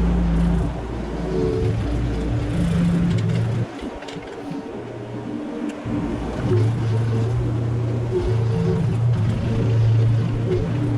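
Mini excavator engine running at work, under background music with held notes that change every second or two.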